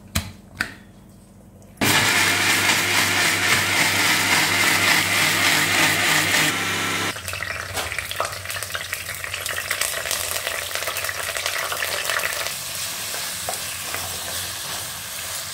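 A couple of light clicks, then food frying in hot oil in a clay pot: a loud steady sizzle over a low hum until about seven seconds in, then a quieter crackling fry with wooden-spatula stirring as potato, onion and green chilli pieces cook.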